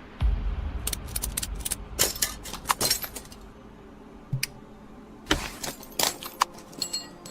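A series of sharp clicks, knocks and rattles, densest in the first three seconds and again near the end, over a low rumble in the first second or so.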